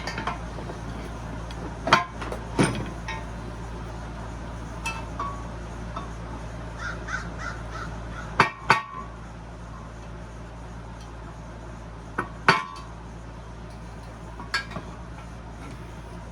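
Hammer blows on a screwdriver used as a drift, driving a steel bushing out of a cast aluminium saw part. Sharp metallic strikes come a few seconds apart, some in quick pairs, each with a short ring.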